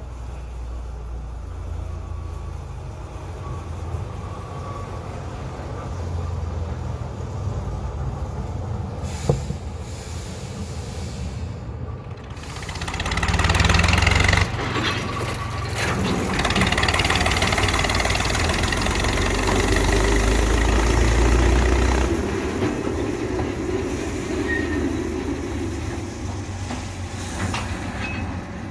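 Narrow-gauge railway train running, with a steady low engine rumble. It grows much louder and noisier about twelve seconds in as the train comes close, then eases off again after about twenty-two seconds.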